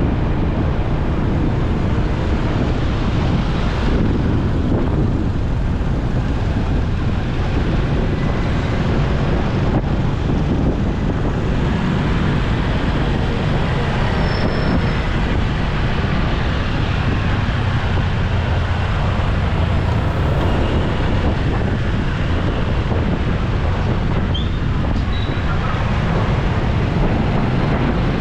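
Steady wind rush on the microphone of a moving motorcycle, mixed with the noise of road traffic.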